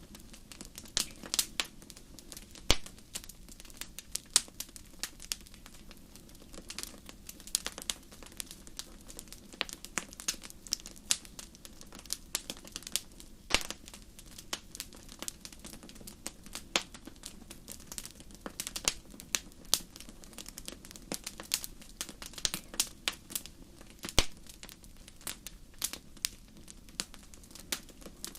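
Campfire crackling: irregular sharp pops and snaps, a few louder than the rest, over a steady low background.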